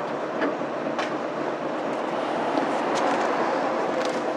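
Interior running noise of a Mitsubishi Fuso Aero Star city bus with its 6M70 inline-six diesel, heard from inside the cabin as a steady rumble with a few light rattles.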